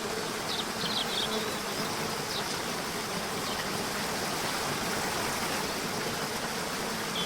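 Steady rush of a river or waterfall, with a few short high bird chirps, a cluster about half a second to a second in, one near two and a half seconds, and another at the very end, over a faint low buzzing hum.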